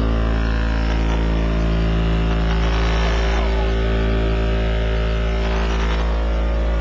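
Car audio subwoofers playing a continuous deep bass tone at competition level for an SPL endurance run. It holds steady, with a stack of steady overtones above the fundamental.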